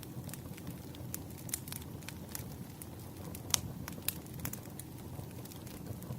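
Bonfire crackling: irregular sharp pops and snaps over a low, steady rumble of the flames, with one louder pop about three and a half seconds in.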